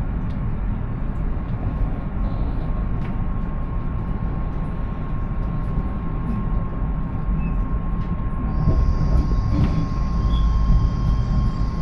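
Passenger train running, heard from inside the carriage: a steady rumble from the wheels and track, with a faint steady whine. The train gets a little louder, with an added hiss, about two-thirds of the way through.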